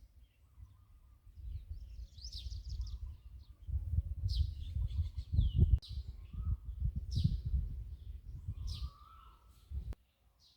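Birds calling outdoors: short high whistled notes that sweep downward, repeated every second or two, over a low rumble on the microphone that swells in the middle. Everything drops away abruptly near the end.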